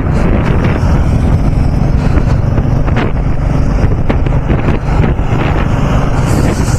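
Heavy wind noise buffeting the microphone of a moving motorcycle, with the bike's engine running steadily underneath.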